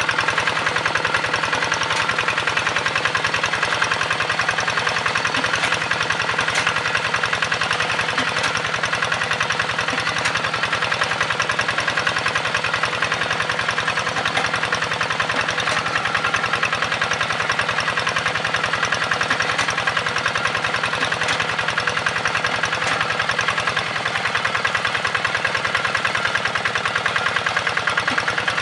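Hand tractor's engine running steadily with a rapid, even chugging beat.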